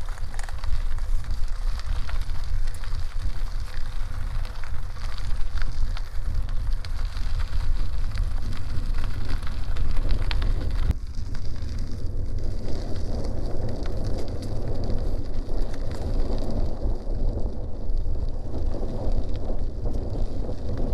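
Bicycle tyres crackling over a dirt and gravel road while riding, with wind rumbling on the microphone. The noise is steady, and it changes abruptly about halfway through.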